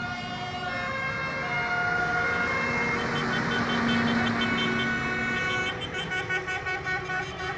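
Parade vehicles passing with engine noise under held, stepping electronic tones and horn toots. About six seconds in, a quick run of short pulsed tones begins.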